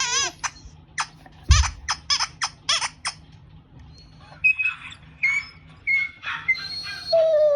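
Funny sound effects: a rapid run of short high squeaks over the first three seconds, then a series of chirping tones, and a falling tone near the end.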